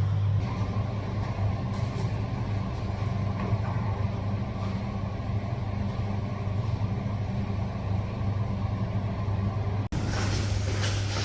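A steady low mechanical hum with a rough rumble over it. It cuts out abruptly near the end and gives way to a brighter hissing rumble.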